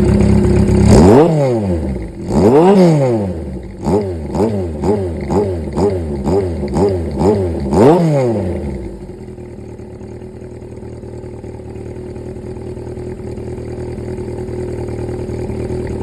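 Suzuki GS750's air-cooled inline-four engine being revved. It gives two big throttle blips, then a run of quick blips about two a second, and settles to a steady idle about halfway through.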